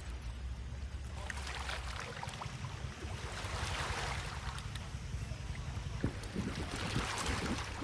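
Rushing water, its hiss swelling and fading three times, over a steady low rumble of wind on the microphone.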